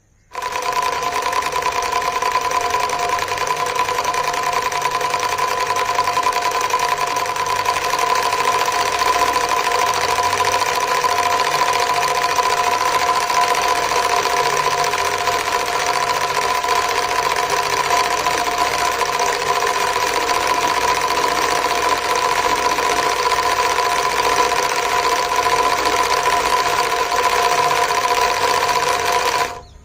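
Homemade syringe V2 two-cylinder engine running steadily at speed: a fast mechanical clatter with a steady whine. It starts suddenly just after the beginning and cuts off suddenly just before the end.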